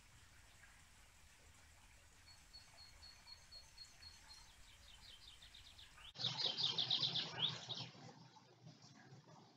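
Small songbird singing: a faint run of short, evenly repeated high notes, then, starting abruptly about six seconds in, a louder burst of quick repeated down-slurred notes lasting about two seconds.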